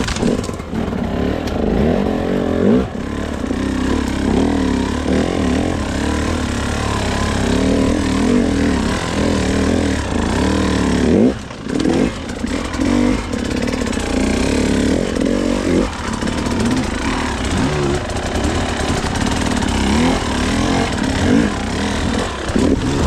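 Dirt bike engine riding through rough off-road terrain, its revs rising and falling constantly with throttle blips, easing off briefly around 3 s, 11 s and 16 s.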